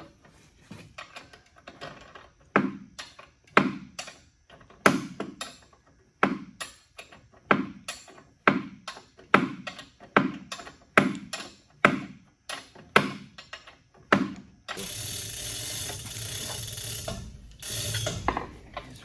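Hand ratchet working a bolt loose: sharp ratchet clicks about twice a second, then a few seconds of steady rasping noise near the end.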